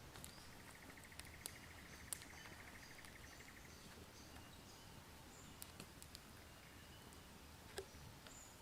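Near silence: faint rain forest ambience. A quick, even trill of rapid pulses starts about half a second in and lasts about three seconds, with scattered soft ticks and faint high chirps.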